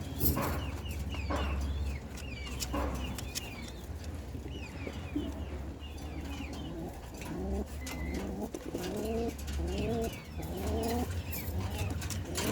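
Domestic pigeons cooing in a loft, a run of repeated rising-and-falling coos growing denser in the second half, with high chirps from smaller birds early on and a steady low hum underneath.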